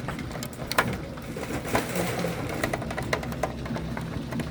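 Severe thunderstorm hitting the house: irregular sharp ticks and knocks of things striking it, over a steady rush of rain and wind.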